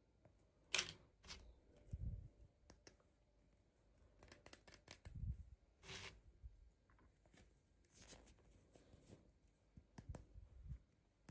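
Faint handling of toy packaging: scattered small clicks, a few short rustling or tearing bursts and some dull thumps.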